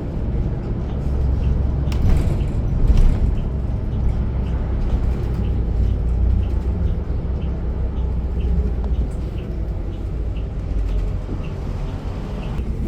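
Transit bus running along a road, heard from inside the passenger cabin: a steady low rumble of engine and tyres, with a faint regular ticking about twice a second.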